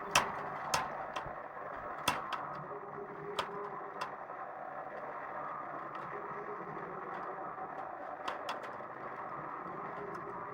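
A budgie working at its cage door: sharp clicks and knocks, about eight spread over the stretch, the loudest near the start and around two seconds in. Under them runs a steady hum of stadium crowd noise from a televised football match.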